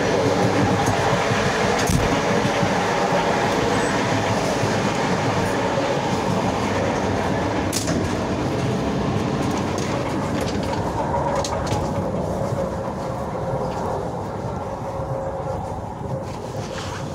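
Regional passenger train running, heard from inside the carriage: a steady rumble with a few sharp knocks, getting somewhat quieter near the end.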